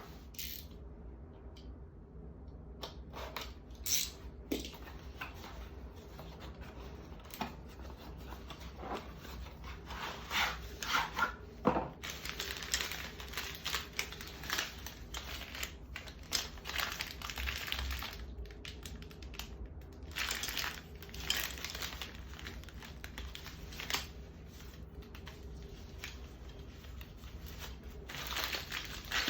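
Items being handled and unpacked: crinkling and rustling of packaging with irregular clicks and taps, busier in the second half, over a steady low hum.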